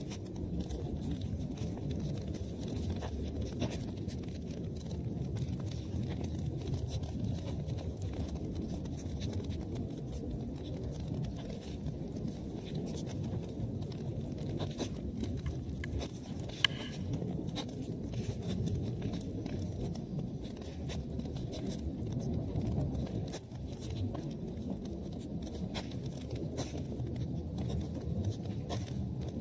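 Wood fire burning in a fireplace: a steady low rumble of flames with many small crackles, and one sharper pop a little past halfway.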